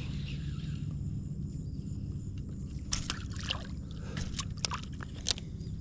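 Water sloshing and trickling around an inflatable packraft, with a run of short sharp clicks and splashes in the second half, over a steady low rumble.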